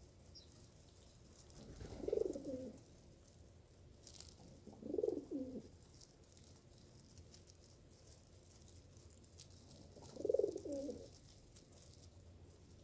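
A dove cooing three times, each low coo lasting under a second, with faint high clicks scattered in between.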